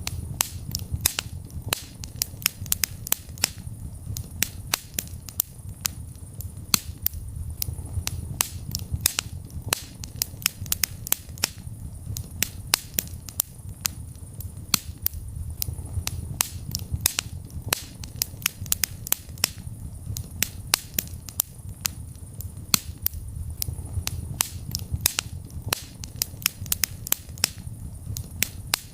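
Wood fire burning in a fireplace, with frequent sharp crackles and pops at irregular intervals over a low rumble of the flames.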